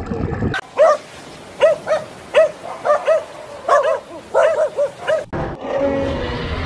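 An animal giving a quick, irregular series of short, high calls, about a dozen in four seconds, like yaps or barks. Near the end there is a cut to a different, steadier sound.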